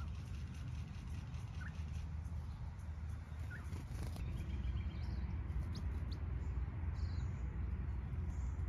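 Small birds calling: short rising chirps about every two seconds, then higher, quicker calls in the second half. There is a brief splash about four seconds in as a small bird bathes in a shallow birdbath dish. A steady low rumble runs underneath.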